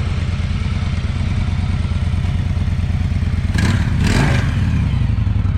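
Motorcycle engine idling with a steady low rumble, with two short louder rushes of noise about three and a half and four seconds in.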